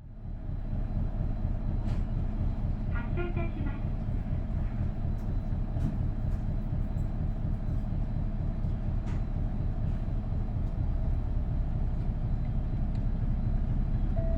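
Isuzu Erga bus's V8 diesel engine running steadily, with a brief run of high beeps about three seconds in.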